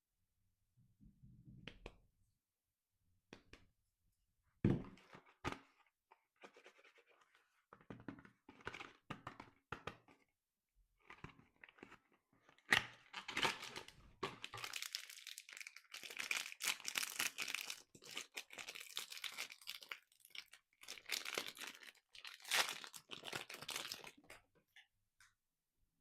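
Soap packaging being handled and opened: scattered taps and light rustles, then from about halfway a long stretch of tearing and crinkling as the wrapper is ripped open.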